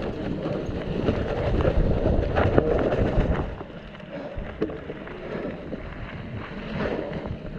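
Mountain bike riding down a wet, muddy trail: tyres squelching and sliding through slop, the bike rattling and knocking, with wind buffeting the helmet microphone. It is loudest at first and eases off about three and a half seconds in.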